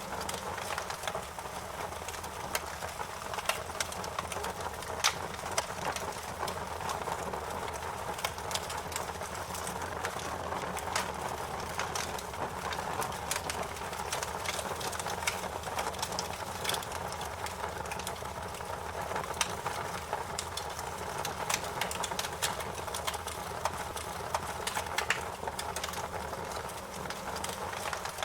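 Wood fire crackling in a fireplace: frequent irregular sharp pops and snaps over a steady hiss of burning.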